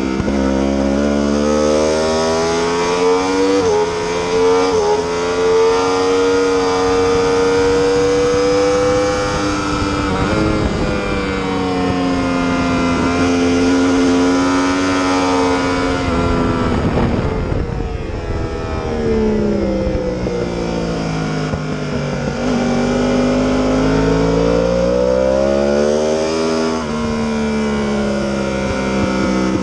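Yamaha R1 inline-four engine revving hard on a race track. Its pitch climbs with brief quick dips, falls away for several seconds past the middle, then climbs again near the end.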